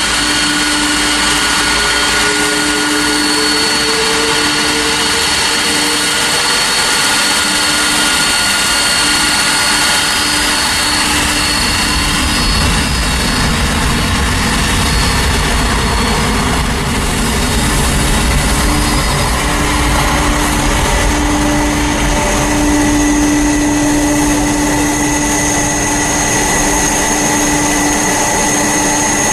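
Jet airliner engines running loud and steady, a dense roar with several high whining tones; a deeper rumble swells in about twelve seconds in.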